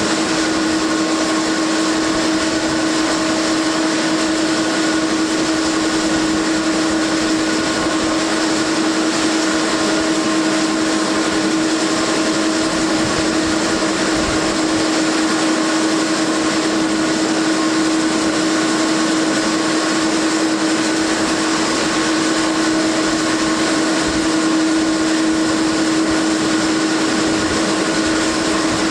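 Dash 8-400 turboprop engines running steadily: a constant droning whine over a broad rushing noise, unchanging in pitch and level.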